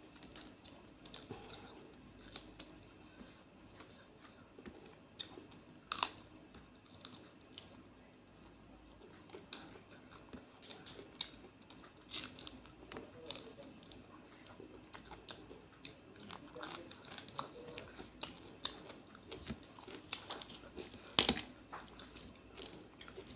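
Close-miked eating by hand: chewing of rice and shrimp masala curry, with many small wet mouth clicks and fingers working the food on the plate. Two louder sharp clicks stand out, about six seconds in and near the end.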